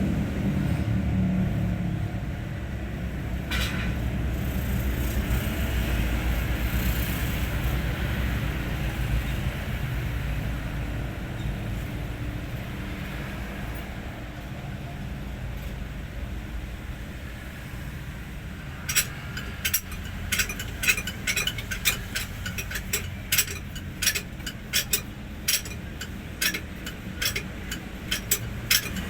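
Low steady rumble of a truck engine running, joined about two-thirds of the way through by a rapid, irregular string of sharp metallic clicks and clinks from work on the engine.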